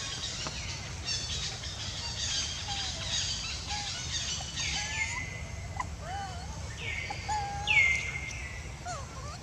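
Birds chirping and twittering in the background. From about five seconds in, a few loud whistled calls sweep down in pitch and hold, with softer short calls lower down.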